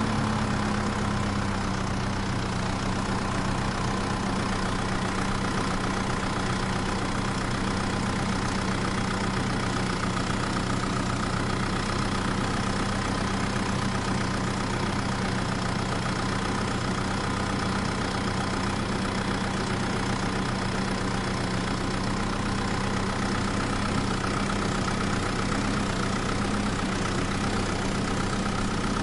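A tractor-type engine running steadily at idle, its pitch settling slightly lower in the first second and then holding even.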